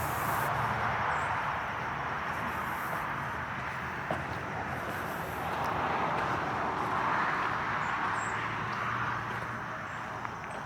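Outdoor ambience of distant traffic, a steady wash of noise that swells and fades slowly as vehicles pass, with a few faint, high bird chirps.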